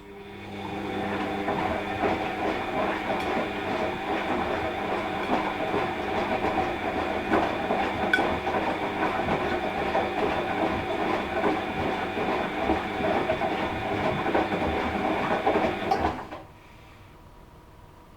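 Washing machine drum turning during the wash: a click, then the motor whirs up within about a second, and the turning drum and load run with a steady rattling whir before stopping abruptly about sixteen seconds in.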